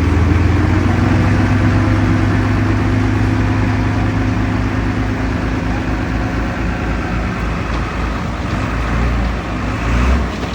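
Heavy diesel engine of earthmoving machinery running steadily under load, a loud deep drone that eases slightly after the first few seconds.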